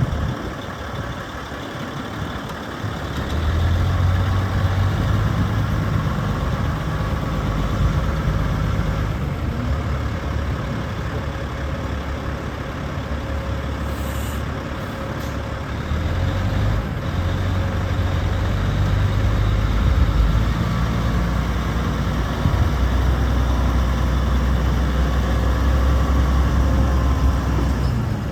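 Heavy diesel engine of a 2007 Sterling LT9500 Vac-Con vacuum truck running steadily, its low drone shifting in pitch a few times.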